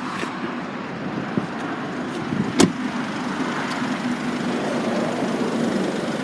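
Motor vehicle engine running steadily, with one sharp click about two and a half seconds in.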